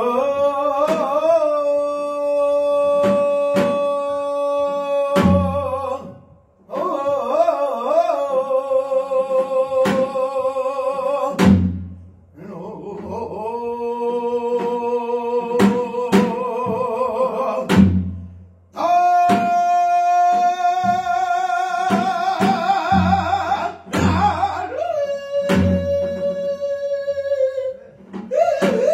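Korean traditional singing: long held vowel notes with a wide vibrato, five phrases of several seconds each with short breaks between, over sharp drum strikes and low thuds at the phrase ends.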